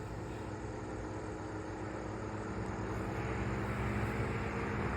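Small light-aircraft engine droning steadily, gradually growing louder.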